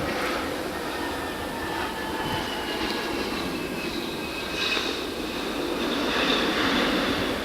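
Jet airliner engines going by: a steady rush with thin whining tones that slowly fall in pitch.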